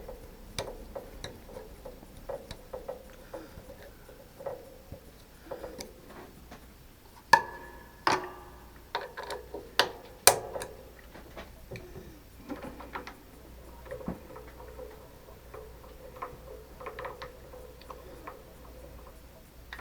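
Scattered light metallic clicks and taps of tools being handled while a boring head is set up on a milling machine, with a louder metal clank that rings briefly about seven seconds in. A faint steady hum underneath.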